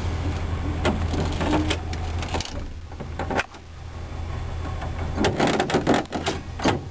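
Air-assisted door on an armored military truck cab closing: a hiss of air fading away, then several clicks and knocks from the door and its mechanism, over a steady low hum that cuts out for a moment about two and a half seconds in.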